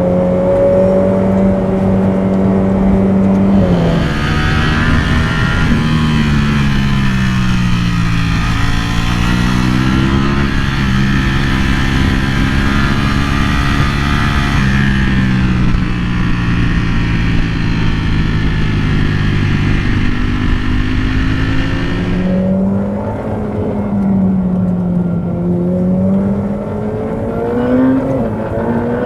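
Ducati Panigale V4R's 998cc V4 engine under way on a twisty road, its note holding, falling and rising again with throttle and gear changes. Heavy wind rush over the engine from about four seconds in until about twenty-two seconds, then the engine alone again, rising and falling.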